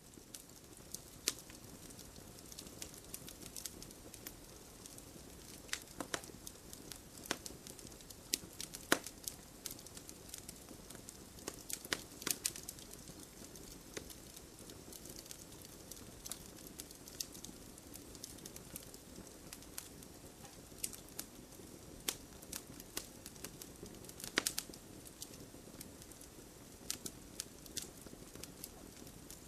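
Wood campfire crackling: irregular sharp pops and snaps over a soft steady hiss, with a few louder pops about 9, 12 and 24 seconds in.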